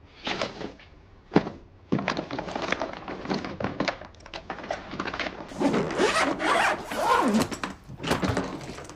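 Belongings being handled and packed: rustling, small knocks and a zipper, with a sharp thunk about one and a half seconds in.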